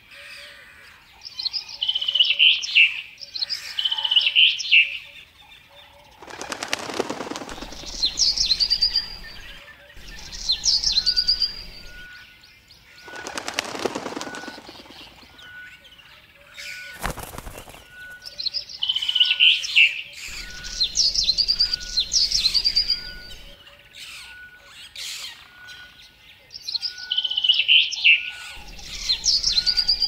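Small songbirds chirping in short phrases that end in quick trills, between whooshing wing flaps as birds fly in and away. A single sharp click about 17 seconds in.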